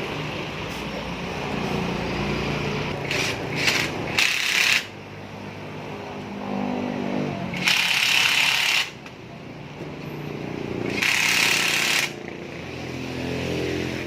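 A machine hums steadily, broken by three loud bursts of hiss of about a second each, with a rising whine before the second burst.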